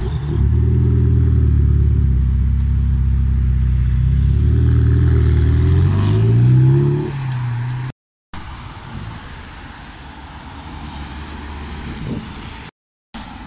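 Sports car engine loud and steady as the car pulls away, then rising in pitch as it revs up, fading out about seven seconds in. After an abrupt cut, a quieter car engine and tyre noise from passing traffic.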